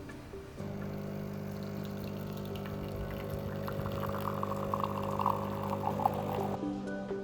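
Water running or pouring over a steady low hum, with bubbling growing stronger in the second half; the sound cuts off abruptly near the end.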